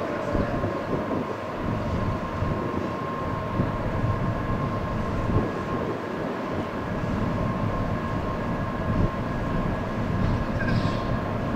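A stationary N700 series Shinkansen train humming at the platform, with a steady high tone from its onboard equipment. Gusty wind buffets the microphone.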